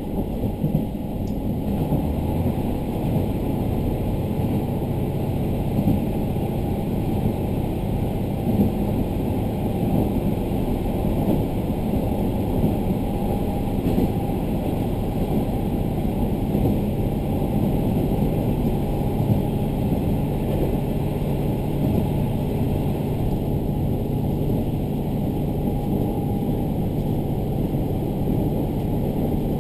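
Diesel railcar under way, heard from inside the car: a steady low rumble of the engine and the wheels running on the track.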